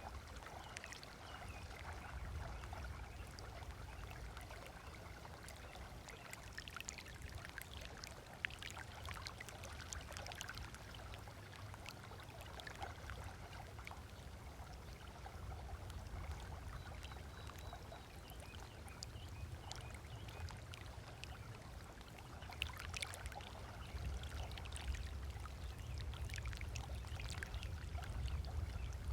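Small waves lapping on a sandy shore: soft, irregular splashes and trickles over a steady low rumble that grows a little louder near the end.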